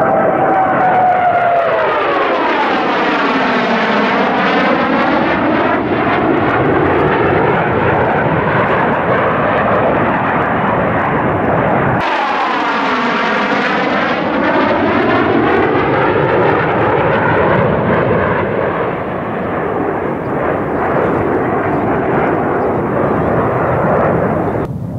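Military jet aircraft flying past overhead: a loud, steady jet roar with a whine that falls in pitch as they go by, and a hollow sweeping tone shifting down and back up. About halfway through, the sound jumps abruptly to a second pass with the same pattern.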